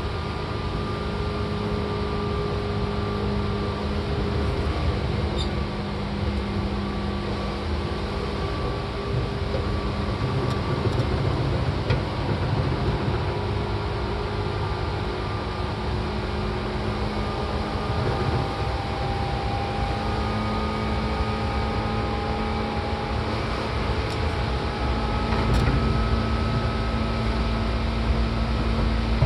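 Seibu 4000 series electric train running, heard from inside the car near the line breaker: a continuous rumble of wheels on rail with a steady hum, and a faint whine that rises slowly in pitch in the second half.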